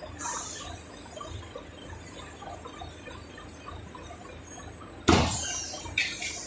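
Automatic bagging and palletizing machinery running with a steady low pulsing. A short air hiss comes near the start, then a loud clunk with a hiss trailing off about five seconds in, and a smaller clunk a second later.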